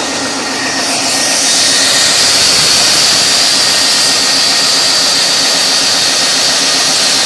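Caterpillar 3516 V16 diesel engine running, loud and steady, with a strong hiss and a high whine over a low drone. It gets louder about a second in.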